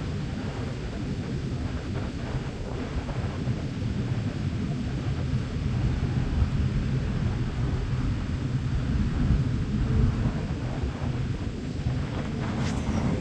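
Wind buffeting the microphone: a low, unpitched rumble that swells and eases in gusts.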